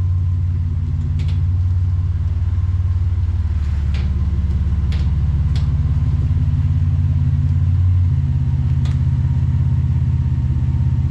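A motor vehicle running, a loud steady low rumble that shifts slightly about eight seconds in.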